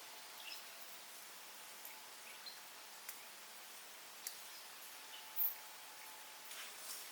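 Forest ambience: a steady soft hiss with scattered small ticks and clicks, and a brief louder sound about five seconds in.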